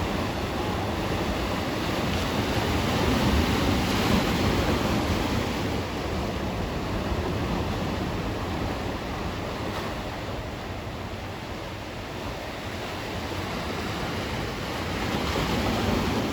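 Sea surf washing onto the shore, a steady rushing that swells a little louder about three seconds in and again near the end, with wind buffeting the microphone.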